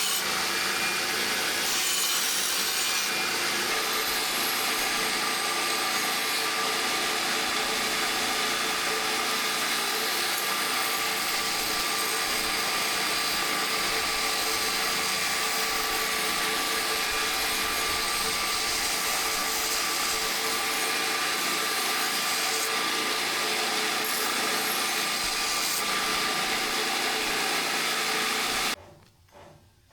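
An electric power tool running continuously under load, with a steady whine over a dense grinding noise. It cuts off abruptly near the end.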